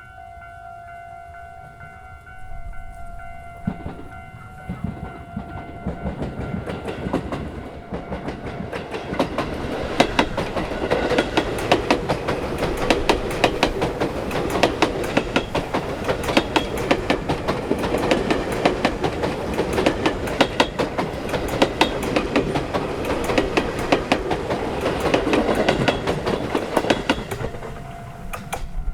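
A train passing close by, its wheels clattering rapidly over the rail joints for about twenty seconds as the noise builds and holds. A steady ringing signal of several tones sounds at the start and returns near the end.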